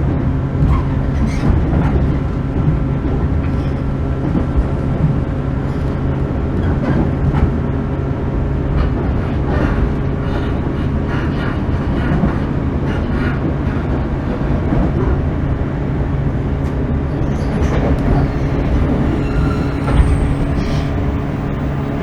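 Interior running sound of a 415 series 1500-subseries electric multiple unit at speed: a steady rumble and hum from the car's running gear, with scattered clicks of the wheels over the rail.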